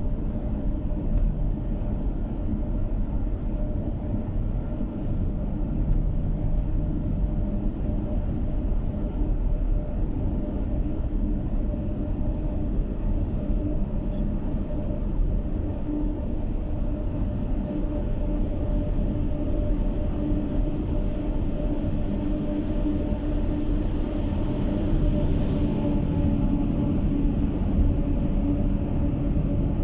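Car driving along a road, heard from inside the cabin: steady road and tyre rumble with a constant engine hum. A brief swell of hiss comes about 25 seconds in.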